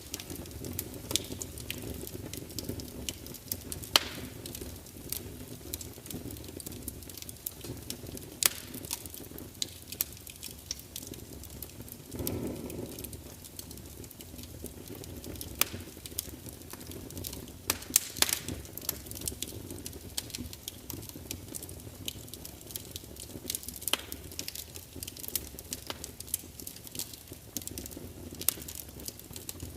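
Log fire burning in a large fireplace: a steady low rumble of flame under constant irregular crackling and spitting pops, with a brief surge of flame about twelve seconds in.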